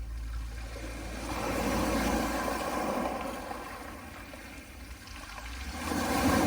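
Small sea waves washing onto a pebble beach: one swell of surf builds about a second in, peaks around two seconds and dies away, and the next wave comes in near the end.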